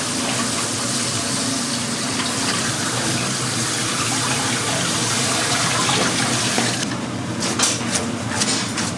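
Kitchen tap running steadily into a sink. It shuts off about seven seconds in, and a few short clatters follow.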